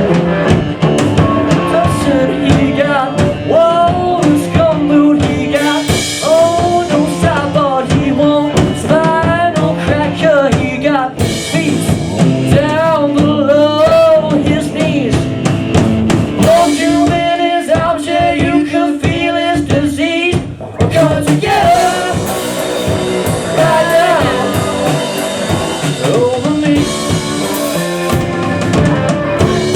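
Live rock band playing loudly, a drum kit keeping the beat under a lead line that bends and wavers in pitch.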